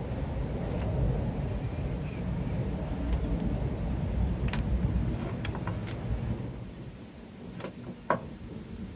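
Knocks, clicks and a short creak from the bent front fender's sheet metal and its support being pushed on by hand from behind, over a low rumble that drops away after about six seconds.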